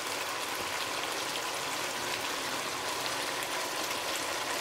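Chicken and shredded cabbage frying in sauce in a wok, a steady, even sizzling hiss.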